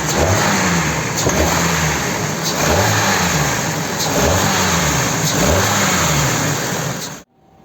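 Kia K5 petrol engine revved repeatedly in short blips, about six rises and falls, with a knock that comes in around 2000 rpm and fades at higher revs; the mechanics trace it to an intake cam phaser that no longer locks. The sound cuts off suddenly near the end.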